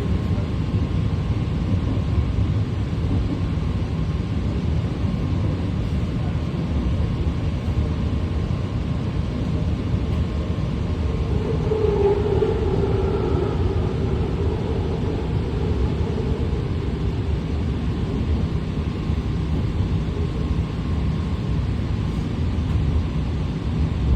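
BART train running along the track, heard from inside a car as a steady, loud rumble. A whine rises and fades about halfway through.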